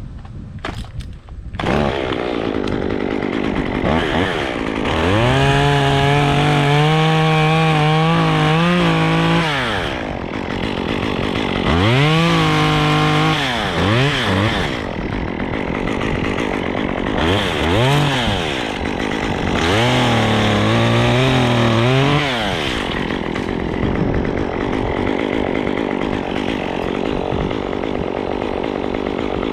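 Two-stroke chainsaw running and throttled up to high revs in about five bursts of a few seconds each, its pitch rising, holding and sagging with each burst, settling back to a lower drone between them.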